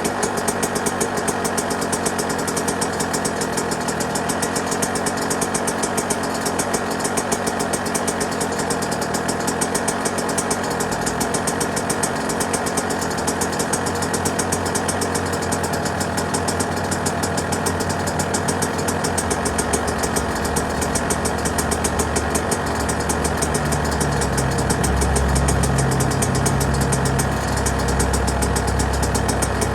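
Yamaha YZ125's single-cylinder two-stroke engine idling steadily, a fast, even train of firing pulses. A deeper low rumble builds over the second half, swelling briefly near the end.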